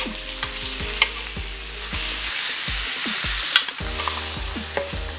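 Swordfish steak sizzling in a grill pan, with a few sharp clicks of metal tongs against the pan.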